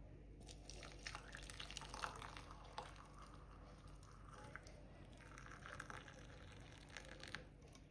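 Hot black tea being poured from the boiling pan into a cup: a faint, uneven trickle of liquid with a few small ticks.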